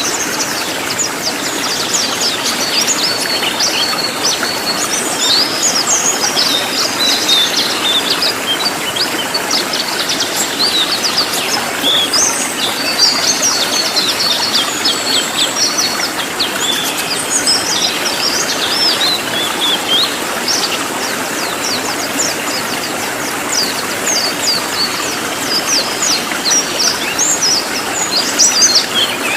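Cililin songbird singing a loud, dense run of quick high-pitched chirps and trills with hardly a break, over a steady rushing background noise.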